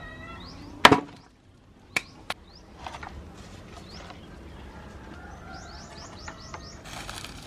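Small birds chirping in short rising notes, with a quick run of chirps about six seconds in. A single loud sharp knock about a second in, and two lighter knocks just after two seconds.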